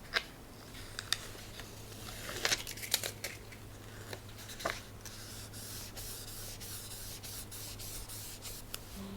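Paper and stationery being handled on a journal page: scattered sharp clicks and taps with papery rustling and scraping between them.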